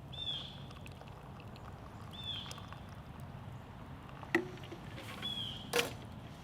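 A bird calling: a short high note with a downward hook, repeated four times a couple of seconds apart. Two sharp clicks come through past the middle, over a steady low hum.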